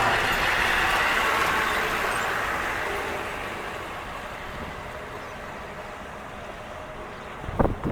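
School bus driving, its engine and running noise loud at first and then fading steadily over about four seconds as it moves away. A short sharp knock comes near the end.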